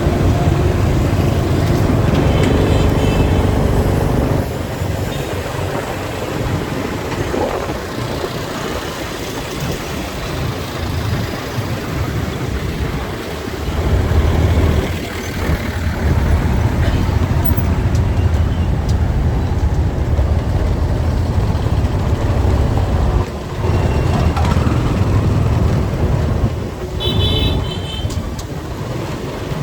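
Street traffic heard from a moving motorcycle: a steady low rumble of engines and road noise that swells and eases. A vehicle horn toots briefly a couple of seconds in and again near the end.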